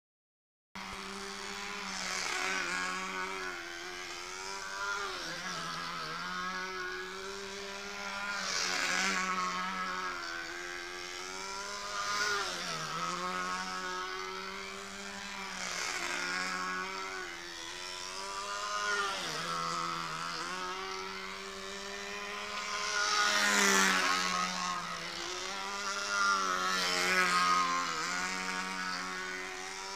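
Unmuffled OS Max FP 25 model engine running steadily on a control-line model plane, its pitch and loudness swelling and dipping every few seconds as the plane circles. Without a muffler it gives more power but is much louder.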